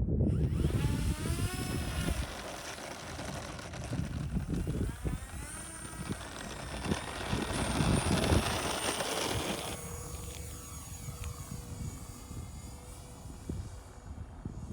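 E-flite Twin Otter RC model plane's twin electric motors and propellers whining, the pitch rising and falling with throttle and passes, with wind gusting on the microphone.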